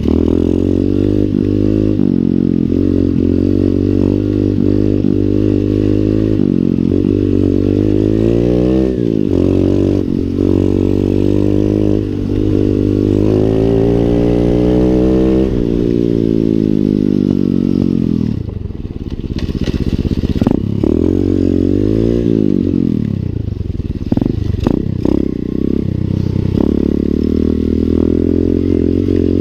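Lifan 125 cc single-cylinder four-stroke pit bike engine being ridden, revving up and easing off several times as the rider runs through the gears, with a long rise in pitch around the middle. There are some rattling clicks in the last few seconds.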